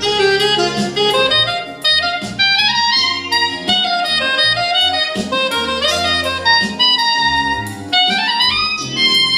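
Live jazz played by a small group, with a woodwind melody over the accompaniment; a quick rising run of notes comes near the end.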